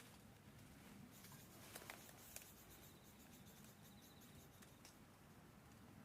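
Near silence: faint room tone with a few soft scattered clicks and a faint, high, broken trill in the middle.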